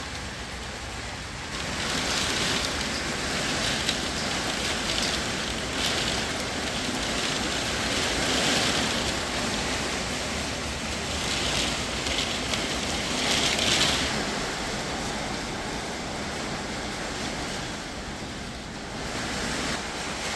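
Blizzard wind gusting, with hail and sleet hissing and pattering on surfaces. The wind swells strongly about two seconds in and eases off after about fourteen seconds.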